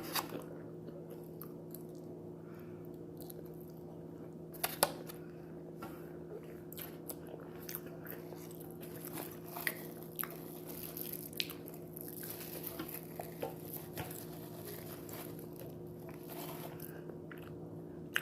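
Close-up mouth sounds of someone eating: soft chewing, smacks and small clicks, scattered unevenly with a louder one about five seconds in. A steady low hum runs underneath.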